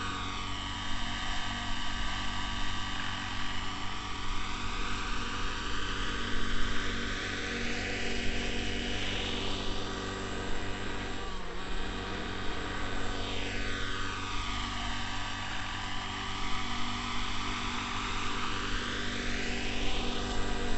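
Neo Caliber 50 nitro RC helicopter in flight: its glow engine and rotors run steadily at a raised head speed. The tone sweeps down and back up twice as the helicopter changes distance.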